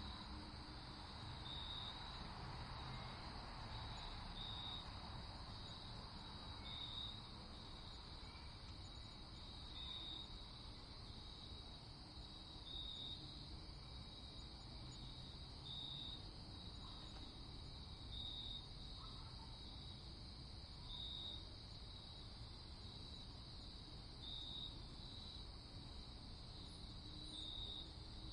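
Night ambience: a cricket chirping in short, high pulses every one to three seconds over a faint, steady hiss.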